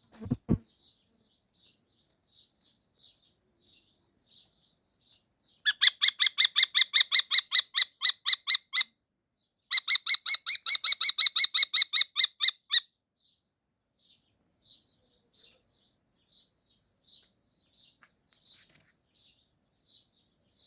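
A bird calling: two loud runs of rapid repeated chirps, each lasting about three seconds at roughly six notes a second, with soft single chirps about once a second in between. A brief low thump right at the start.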